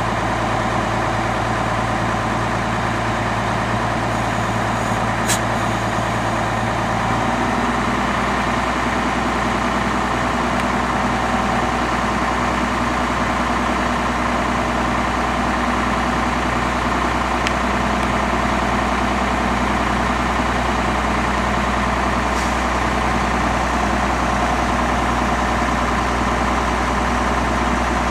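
1981 International 1854 dump truck's engine idling steadily, its low note shifting slightly about seven seconds in, with a faint click or two.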